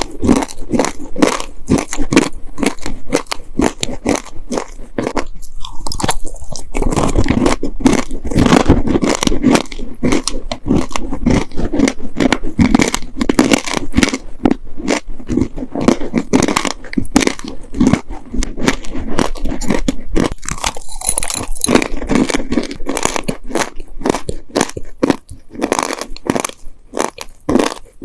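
Close-miked chewing of dry, sandy baked clay cookies: dense, continuous gritty crunching, with a short lull about five seconds in.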